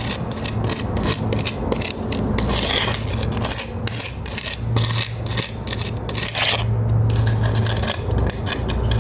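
Hand float, likely a magnesium float, scraping and rubbing over a stiff pea-gravel concrete patch in quick repeated strokes, the gravel grating under the float as the mix is packed in and smoothed. A low hum runs underneath part of the time.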